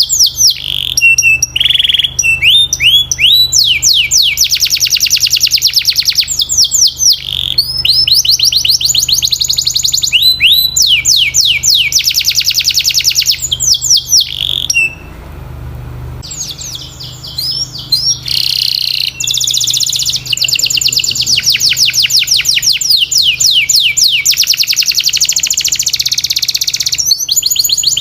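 Canary singing a long song of fast, repeated trills that switch from one trill to another every second or two, with a brief pause about halfway through. A faint steady low hum runs underneath.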